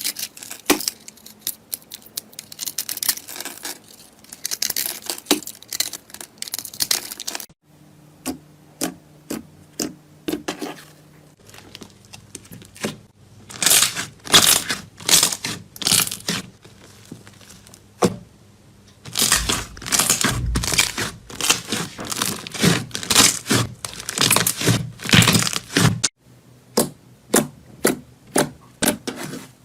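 Slime being squeezed, pressed and stretched by hand, giving runs of sticky crackling, popping and tearing sounds. The sound changes abruptly several times as one slime clip cuts to the next.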